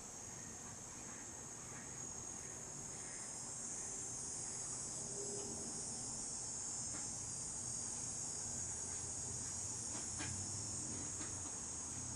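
A steady, high-pitched chorus of insects chirping, with a few faint clicks near the end.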